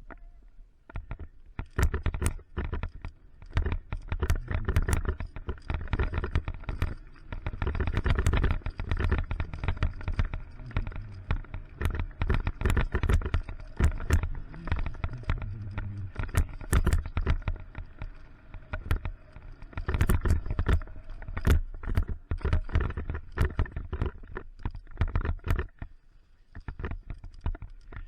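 Mountain bike descending a rough downhill trail: the bike rattles and clatters, with many sharp knocks over rocks and roots above a continuous low rumble.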